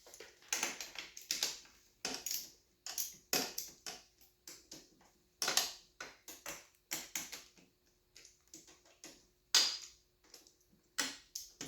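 Hand tools working on the cylinder head bolts of a KTM 125 SX two-stroke: a run of irregular metallic clicks and short scrapes, several a second, over a faint steady hum.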